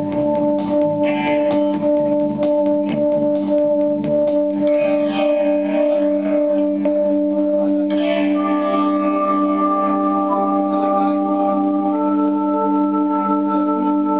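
Live band music: a sustained, droning organ-like chord held throughout. The low rhythm parts drop out about five seconds in, and further held notes join the drone about eight and twelve seconds in.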